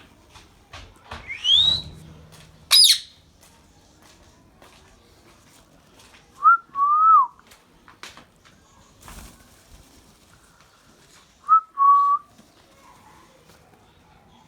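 Indian ringneck parakeet calling: a rising whistle, then a short, piercing shriek, followed later by two pairs of lower whistled notes.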